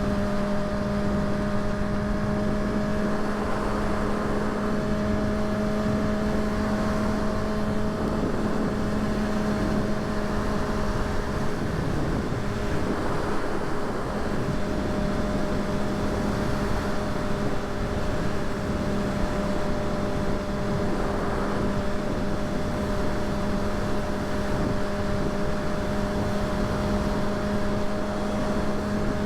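Kawasaki ZX-6R inline-four engine cruising at a steady engine speed, a constant even hum over rushing noise.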